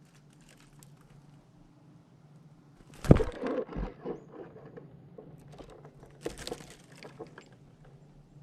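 A squirrel scrabbling at a feeder: a sharp knock about three seconds in, then scratching and rustling with small clicks, and another burst of scratching a few seconds later.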